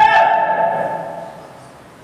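A man's voice holding a drawn-out last syllable on one steady pitch, fading away about a second and a half in, then low background hum.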